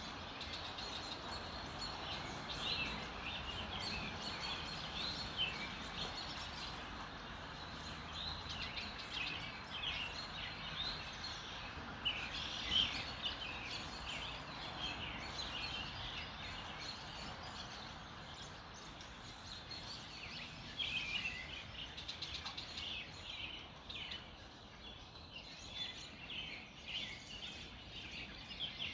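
Dawn chorus: several songbirds chirping and trilling continuously over a steady hiss of outdoor background noise.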